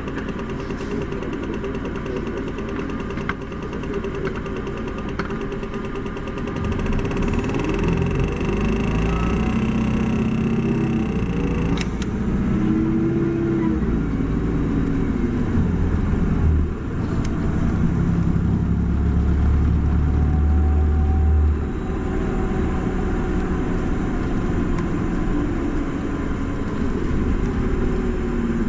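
Isuzu Erga city bus's diesel engine running steadily, then pulling harder from about 7 s with its pitch rising and falling through gear changes, dipping briefly near 17 s, and easing back to a steadier note after about 22 s. A sharp click sounds near 12 s.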